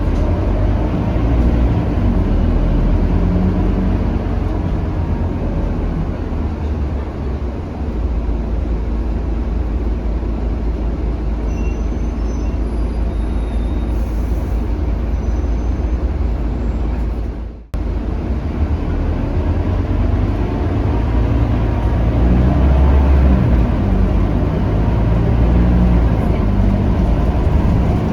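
Scania K310UB city bus on the move, heard from inside: a steady low engine drone with road and tyre noise, cutting out briefly for a moment about 17 seconds in.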